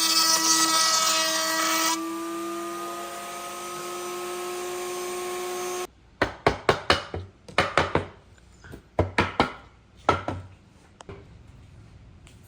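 An electric power tool's motor running with a steady whine, its pitch creeping up slightly. It is cut off abruptly about six seconds in, and a string of sharp knocks on wood follows in quick clusters.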